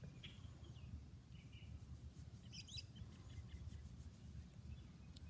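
Faint birds chirping a few short times over a low, steady rumble of outdoor background noise.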